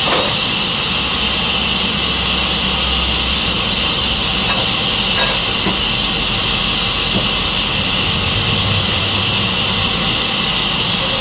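Sawmill saw machine running: a loud, steady, hissing mechanical noise with a low hum beneath it.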